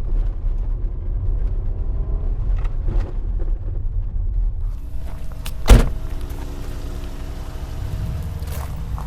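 Car engine running with a steady low rumble, and one sharp knock a little past halfway.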